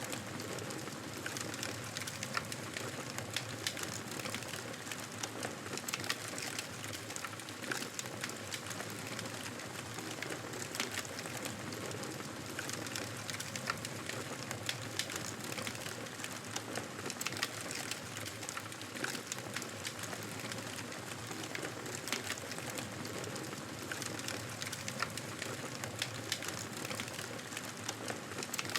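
Campfire burning, a steady hiss dotted with frequent irregular crackles and pops of the wood.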